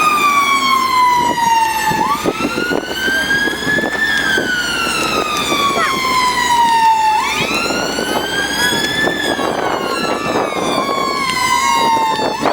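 Fire engine siren wailing, its pitch rising and then falling more slowly, in cycles about five seconds long, with a faint crackle underneath.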